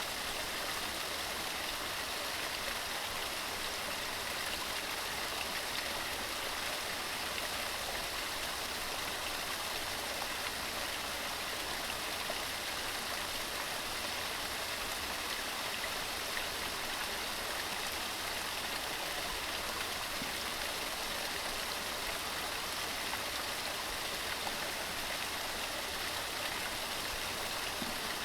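Waterfall: water tumbling over rocks in a steady, unbroken rush of white noise.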